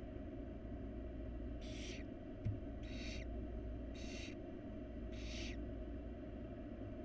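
Barn owl nestlings giving hissing begging calls: four raspy hisses about a second apart, over a steady low hum. There is a single short thump about halfway through.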